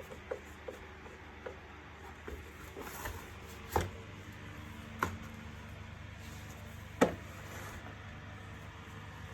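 Hard plastic parts of an Electrolux Ease C4 bagless vacuum cleaner being handled and fitted together by hand. A few light clicks are followed by three sharper knocks, the last the loudest, over a steady faint hum.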